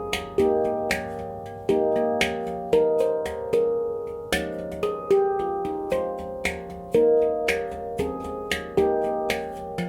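F minor handpan made by Oasis Sound Sculpture, played by hand: a steady rhythmic pattern of struck notes, about two strikes a second, each ringing on with bell-like overtones.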